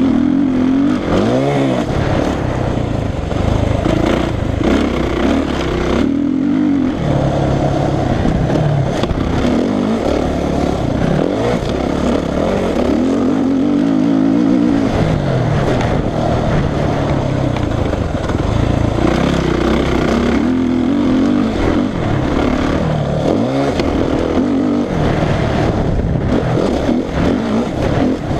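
Suzuki RM-Z450 four-stroke single-cylinder dirt bike engine being ridden hard, revving up and down again and again as the throttle opens and closes, with short drops in revs as the rider backs off.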